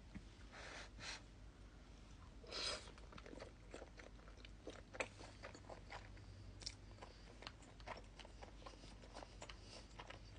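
Close-miked chewing of chicken riggies (rigatoni and chicken in sauce): a quiet run of many small wet mouth clicks and smacks, with a few slightly longer, louder bites and slurps along the way.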